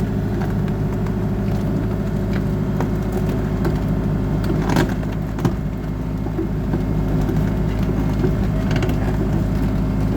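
Diesel engine of a 120-size excavator running steadily from inside the cab, with two sharp knocks about five seconds in.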